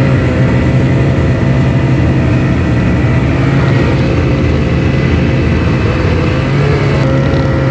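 Snowmobile engine running steadily at an even speed, loud and close, with a faint high whine over the low drone.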